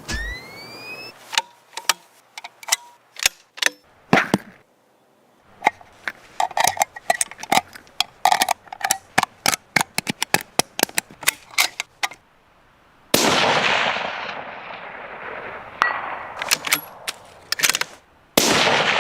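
A rifle in a Woox Furiosa wooden stock: a run of sharp metallic clicks and clanks, some with a short ring, then two loud shots about 13 and 18 seconds in, each trailing a long rolling echo.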